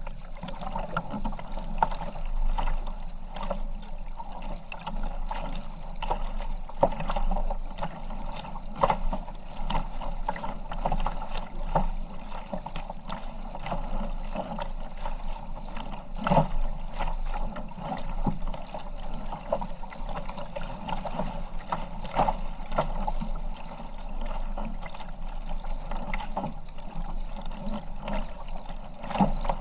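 Kayak being paddled: water splashing and lapping around the paddle and hull, with frequent irregular small splashes and knocks over a steady water noise.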